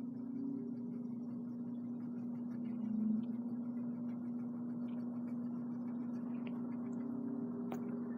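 1950s Eskimo box fan running steadily on its low setting: a constant electric motor hum over the even rush of air from the blade.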